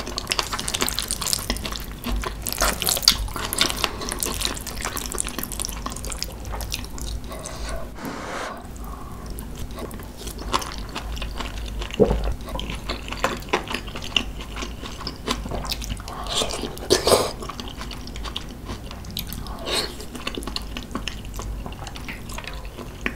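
Close-miked wet eating sounds: chewing and smacking of saucy kimchi tuna rice, with many small sticky clicks and an occasional knock of a spoon against a bowl.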